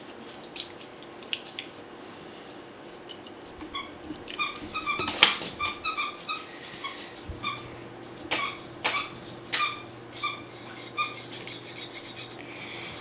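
A mini violin bowed by an unskilled player: short, squeaky, scratchy high notes with handling knocks, starting a few seconds in and running on irregularly.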